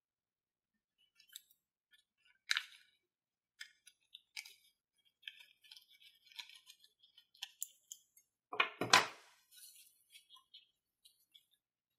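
Slime and balloons being handled: scattered small sticky clicks and crackles, with one louder squish about nine seconds in.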